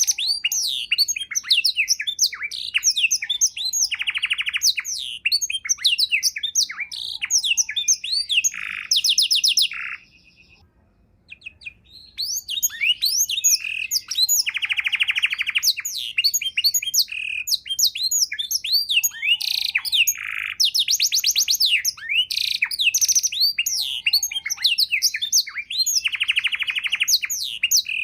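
Domestic canary singing a long, fast, varied song of chirps, sweeping whistles and rattling trills, with one pause of about two seconds about ten seconds in.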